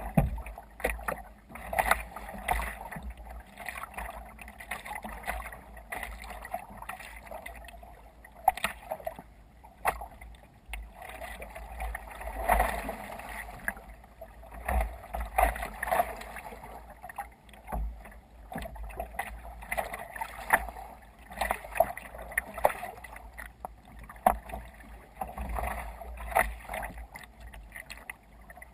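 Water splashing and slapping against a kayak under way in waves, in irregular bursts about every second, over a low rumble.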